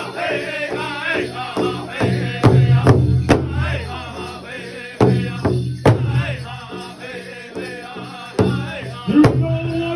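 Powwow drum group: several voices singing together in wavering pitch, over hard strikes on a big drum.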